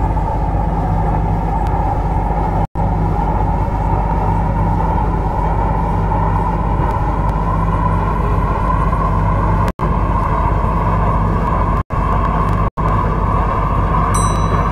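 MTR C-Train electric multiple unit running, a loud steady rumble with a tone that slowly rises as the train gathers speed. The sound cuts out briefly a few times.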